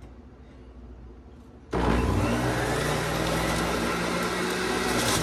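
An electric QCEN juicer switched on about two seconds in, its motor running loudly and steadily as fruit is pushed down the feed chute.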